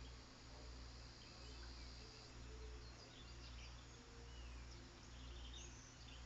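Faint outdoor ambience: scattered distant bird chirps and short calls over a steady low hum.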